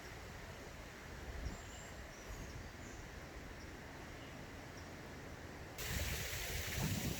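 Faint outdoor ambience with a few short, high bird chirps. About six seconds in it cuts abruptly to a louder steady rush of flowing water, as of a stream.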